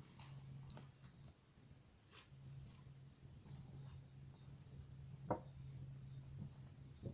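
Wood fire crackling faintly: sparse small pops of burning wood, with a sharper pop about five seconds in, over a low steady hum.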